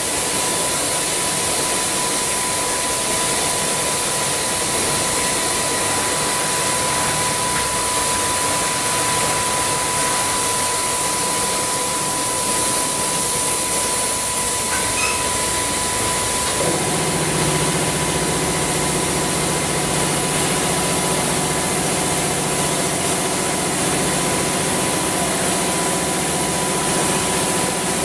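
Automatic car wash machine running: a steady hiss of high-pressure water spray with a thin steady whine, and a motor or pump hum that starts about two-thirds of the way through and holds.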